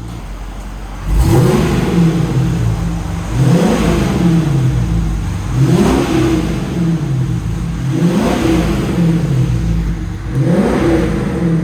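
Dodge Charger R/T's 5.7 L HEMI V8 idling, then blipped five times in a row, each rev rising and falling back to idle. The exhaust has the rear mufflers removed but the mid resonators still in place, and it sounds low.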